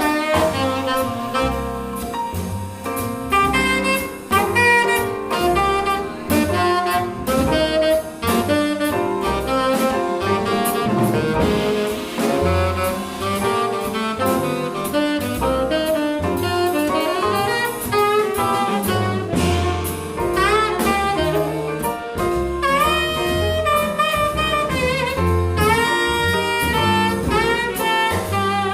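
Small jazz group playing live: a horn carries a running melodic line with quick and held notes over double bass stepping from note to note, piano and drum kit with steady cymbal and drum strokes.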